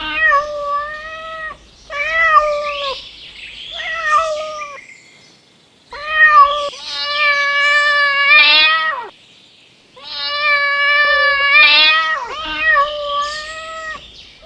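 Domestic cat meowing repeatedly: about six calls, most around a second long, two of them drawn out for two to three seconds.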